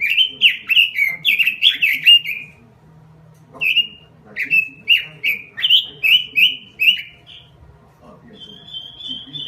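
Pekin robin (red-billed leiothrix) singing: two rapid runs of short, downward-slurred whistled notes, then one level held whistle near the end.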